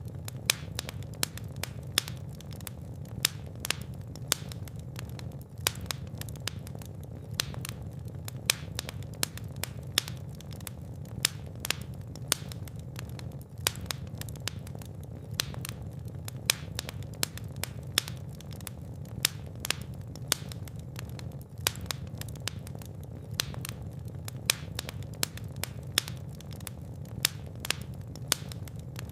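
Fire burning in a fireplace, crackling and popping with many sharp, irregular snaps over a steady low rumble.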